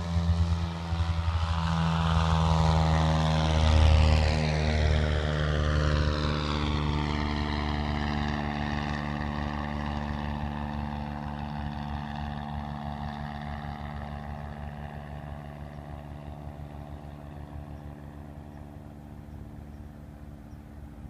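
Cessna 172's engine and propeller droning at takeoff power as the plane climbs out. It is loudest about four seconds in, then fades steadily as the plane draws away.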